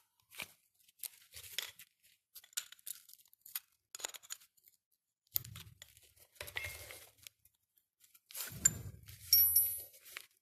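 Small metal carburettor parts being handled and turned over: scattered clicks and scrapes, heavier knocks about halfway through and again near the end, and a short ringing metallic clink near the end, the loudest sound.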